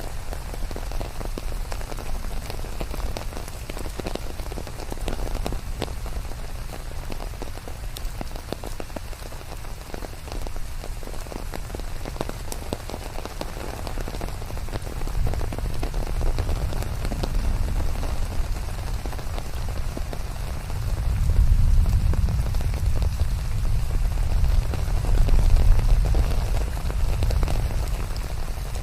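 Steady rain falling, with many separate drops striking a surface. A low rumble swells twice in the second half, making it louder for a few seconds each time.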